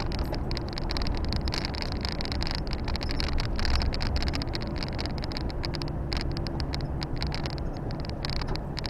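Volvo FH 460 truck's six-cylinder diesel engine running steadily while driving, heard from inside the cab with a continuous hiss of road and tyre noise.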